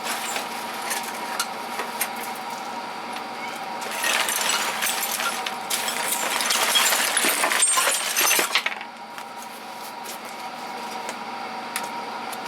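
Small metal tools and hardware clinking and clattering as they are handled and sorted, busiest and loudest from about four seconds in until a little past eight, over a steady background hum.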